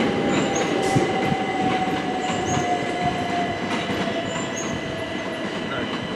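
Class 375 Electrostar electric multiple units running through the station, a steady rumble of wheels on rail with a whine that falls slowly in pitch over several seconds.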